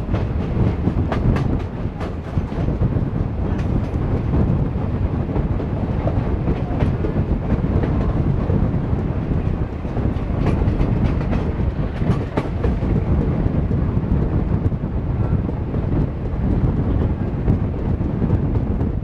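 Indian Railways passenger train running at speed, heard from on board one of its own coaches: a steady low rumble of wheels on the track, with short clacks as the wheels cross rail joints.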